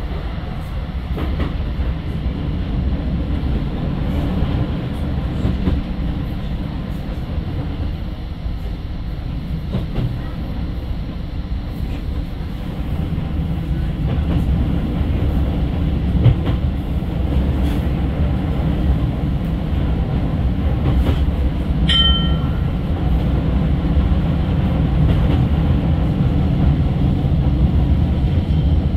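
A tram running along its track, heard from inside the car: a steady low rumble of wheels and motors with occasional light clicks. About twenty-two seconds in there is a brief high-pitched tone.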